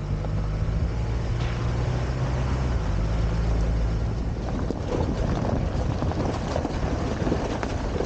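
Vehicle engine running steadily, its low hum dropping away about four seconds in, under a constant rumble of wind buffeting the microphone.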